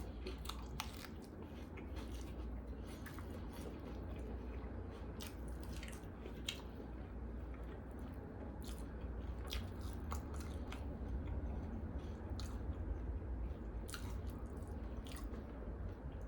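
Close-up chewing of a BLT sandwich, with many small wet clicks and crunches all through.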